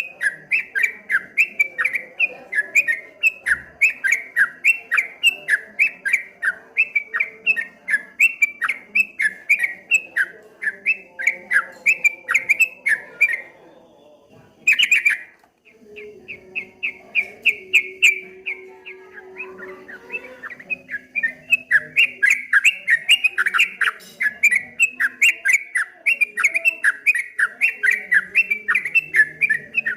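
Yellow-vented bulbul (trucukan) singing a fast, rolling chatter of short repeated notes, several a second, with a brief break about halfway through before the song picks up again.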